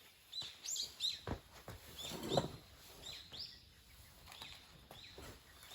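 Small birds chirping in short, repeated notes, with a few knocks mixed in, the loudest about two seconds in.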